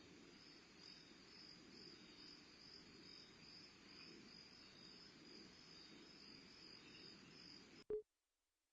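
Faint crickets chirping steadily in an even pulsing rhythm over a low hiss, cut off by a click about eight seconds in, after which the sound stops dead.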